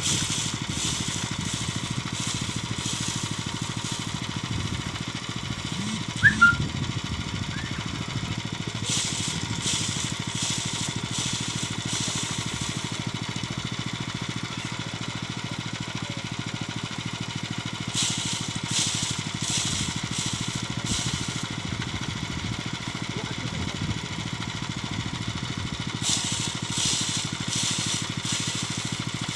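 Homemade engine-driven rice thresher running steadily. A high hiss swells over the machine's hum for about three seconds at a time, four times at roughly eight-to-nine-second intervals. A single sharp knock sounds about six seconds in.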